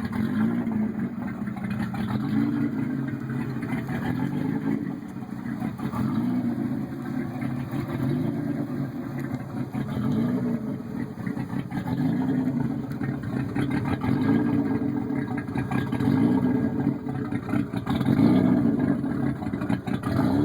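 Pontiac Grand Prix GTP's 3800 V6 running through an open exhaust cutout, revved in short blips roughly every couple of seconds, its pitch rising and falling back to idle each time.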